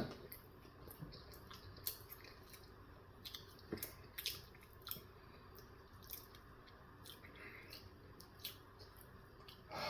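Faint chewing and wet mouth sounds, with scattered small clicks, from someone eating a breakfast bagel sandwich.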